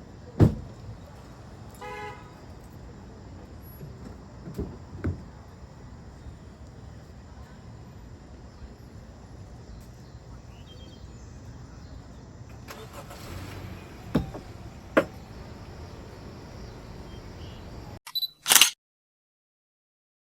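Steady low rumble of a vehicle, broken by several sharp thumps and a short pitched beep about two seconds in. A loud burst near the end is followed by a sudden cut to silence.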